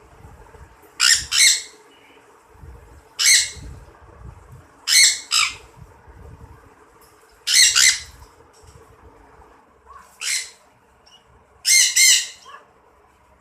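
A bird squawking in loud, harsh calls, mostly in quick pairs, about six times at intervals of a couple of seconds.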